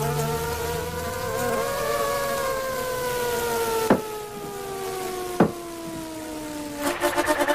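Cartoon buzzing of a flying insect: a steady pitched drone that rises slightly and then slowly sinks, broken by two sharp clicks. Near the end it turns into a rapid stuttering buzz.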